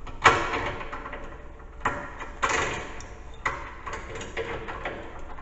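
Hand tools clanking and rattling as wrenches and sockets are handled: about five sharp knocks, a second or so apart, each ringing out briefly.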